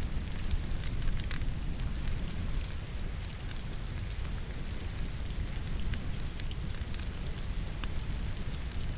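Logs burning in a fireplace, crackling with scattered sharp pops over a steady hiss of rain and a low rumble.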